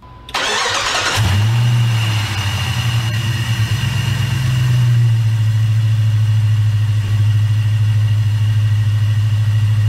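A Jeep Grand Cherokee's 4.7-litre V8 is cranked by the starter for about a second, then catches and runs at a steady idle. This is its first start after a new timing chain set was fitted.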